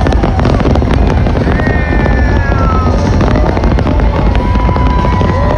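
Fireworks going off in a dense barrage: a continuous low rumble of booms with many sharp crackling pops. A few long pitched tones, some falling slowly, sound over it.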